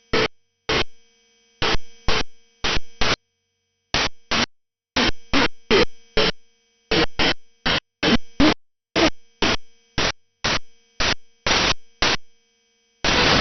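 Shortwave radio receiver audio: short bursts of hissing static switching on and off in an uneven rhythm, each one dying away quickly, with faint steady low tones in the near-silent gaps between.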